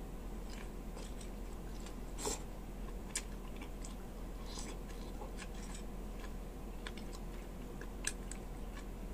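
Close-up biting and chewing of boiled pechay (bok choy) greens, with scattered crisp crunches and mouth clicks. The loudest crunch comes about two seconds in.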